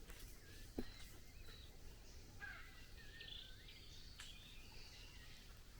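Faint forest birdsong: several birds giving short whistled notes and gliding calls. A single soft knock comes about a second in.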